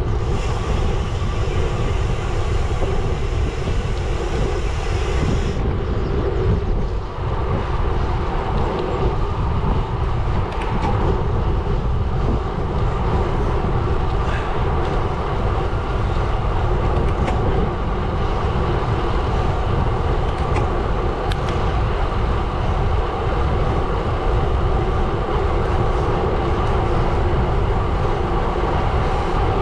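Gravel bike rolling on a gravel road: steady crunching tyre noise and rumble, with a few small ticks from stones.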